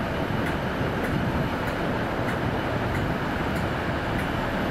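Avanti West Coast Class 390 Pendolino electric train arriving, with a steady rumble of wheels and running gear and faint regular clicks about every half second.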